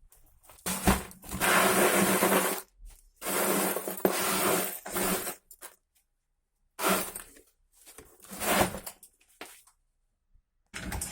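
Shredder crusher running and grinding material in several bursts of one to two seconds, its motor hum under a crunching, breaking noise, with abrupt dead silences between the bursts.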